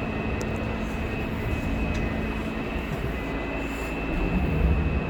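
A vehicle engine running under load as an SUV pushes through deep snow, a steady drone that grows louder about four seconds in.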